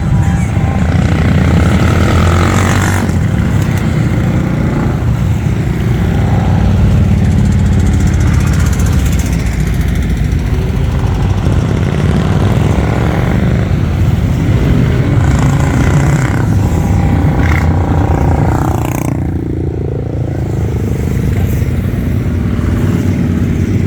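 A group of motorcycles riding along, their engines running together steadily, with one revving up about three-quarters of the way through.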